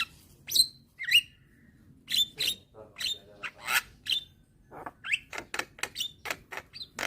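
Young Javan myna (jalak kebo) calling: a rapid run of short, sharp chirps and whistled notes, with a brief pause about a second in before the calls start again.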